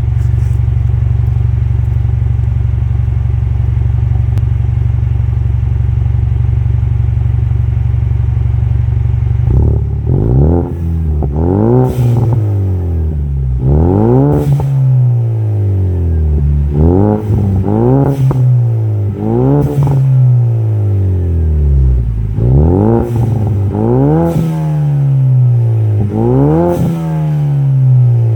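Vehicle engine running through an MBRP aftermarket performance exhaust: it idles steadily for about nine seconds, then is revved again and again, every second or two, each rev climbing quickly and dropping back to idle.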